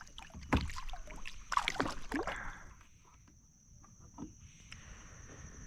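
Water splashing and knocking around a kayak for the first couple of seconds, then quieter lapping, over a steady high-pitched hum.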